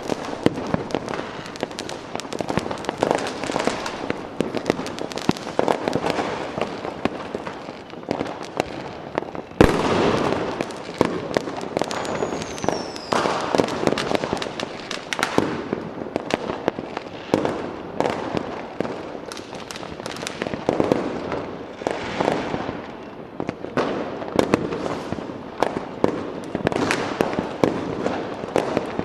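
Fireworks going off: a dense, continuous run of crackling pops and bursts, with one loud bang about ten seconds in and a short falling whistle a couple of seconds later.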